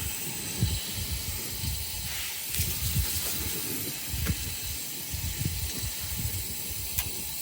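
Strong wind buffeting the microphone in irregular low gusts, over a steady high hiss.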